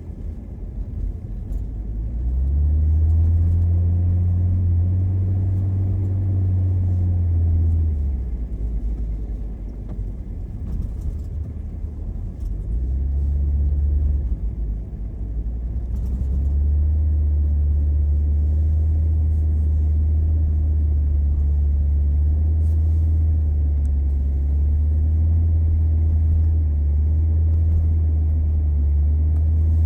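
Car driving: a low engine and road drone that climbs as the car picks up speed about two seconds in, drops back for several seconds in the middle, then climbs again and holds steady.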